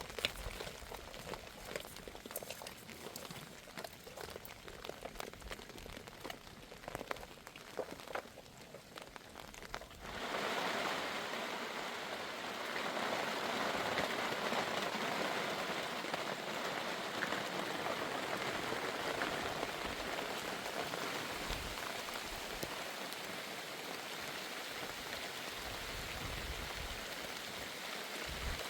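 Scattered light drips and taps, then about ten seconds in a sudden change to steady heavy rain pouring down.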